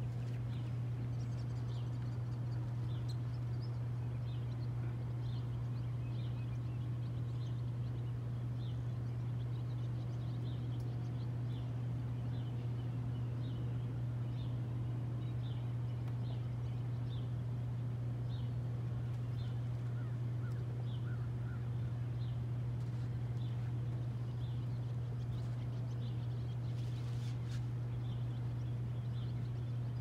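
A steady low hum with small birds chirping over it, short high chirps coming roughly once a second.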